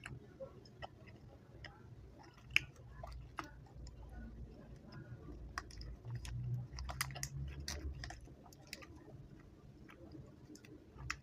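Close-miked mouth chewing a chewy chocolate candy: a run of wet clicks and smacks, busiest in the middle.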